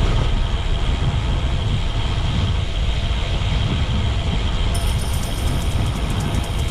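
Steady wind rumble buffeting the microphone while riding a bicycle. About five seconds in, a rapid, even, high-pitched ticking starts up.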